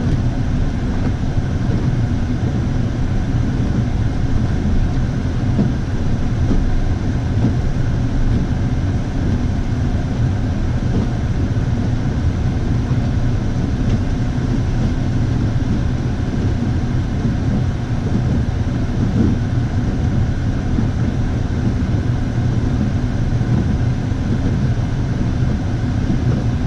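A vehicle on the move: a steady, even drone of engine and travel noise with no sharp events.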